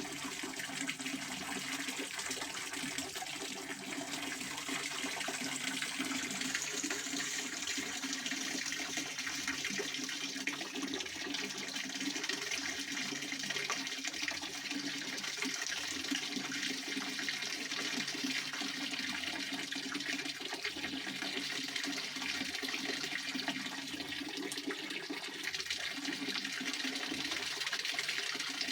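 Pond water fountain splashing: a steady, unbroken rush of spray falling back onto the water.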